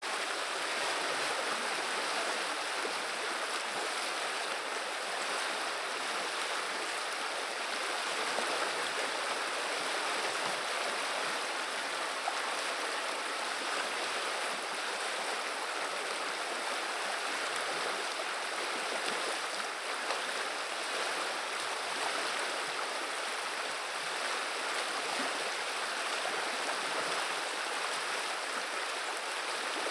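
River water flowing and babbling in a steady, even rush.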